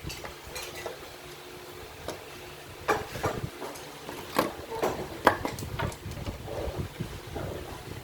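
Irregular clatter of small hard objects: a handful of sharp clicks and knocks, the loudest coming together in the middle, over a faint steady hum.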